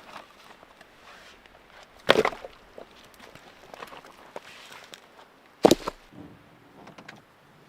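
Two sharp knocks, about three and a half seconds apart, among faint scattered clicks.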